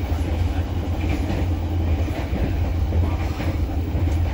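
Passenger train running along the track: a steady low rumble of the moving train.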